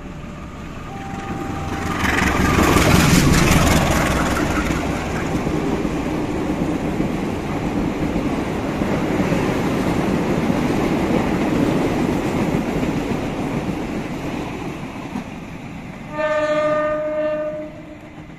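A CC 201 diesel-electric locomotive hauling a passenger train passes close by. Engine and wheel noise rise sharply about two seconds in with a rapid clatter, then the steady rumble of the coaches rolling past slowly fades. Near the end a train horn sounds one blast of about a second and a half.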